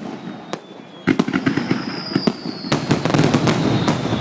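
Fireworks going off: a string of sharp bangs, with dense crackling starting about a second in. Thin whistles glide slowly down in pitch over the top.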